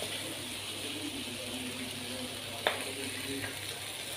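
Sabudana khichdi frying gently in a kadhai, a soft steady sizzle. A single clink of the steel spatula against the pan comes about two and a half seconds in.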